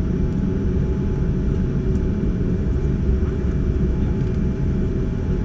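Cabin noise inside a Boeing 787-9 on the ground before takeoff: a steady low rumble from the engines running at low power and the aircraft rolling, with faint steady tones above it.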